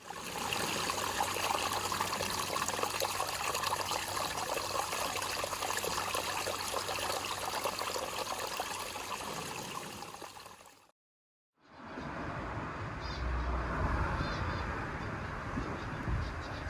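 Water trickling and splashing for about eleven seconds. Then, after a brief silent cut, a low rumble with a few high bird chirps.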